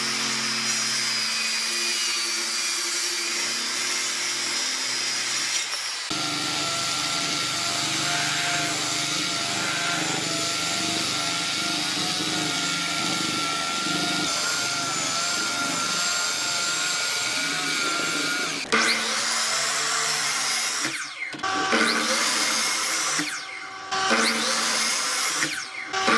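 Electric power tool working wood, running steadily with a high motor whine. Its sound changes about six seconds in, and near the end it runs in short bursts with brief pauses between them.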